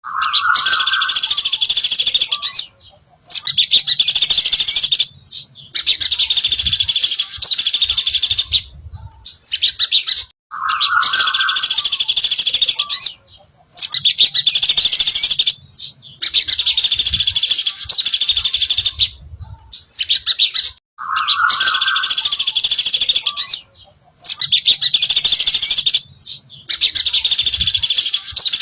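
A sogon dasi trotol songbird singing loud, rapid high-pitched chirping phrases, each about two seconds long with short pauses between, some opening with a lower note; the same sequence repeats about every ten seconds.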